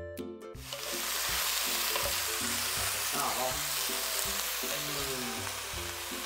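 Pad see ew noodles sizzling in a hot wok while being stirred with a wooden spatula. The frying starts about half a second in and holds steady.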